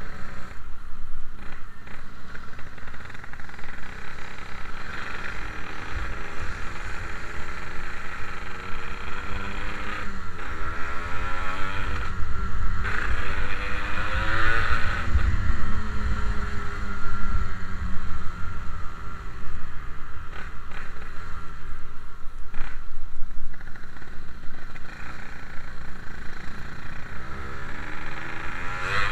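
Yamaha RX-King's two-stroke single-cylinder engine under way, its pitch rising and falling repeatedly as it revs up through the gears and eases off. Heavy wind rush on the microphone runs beneath it.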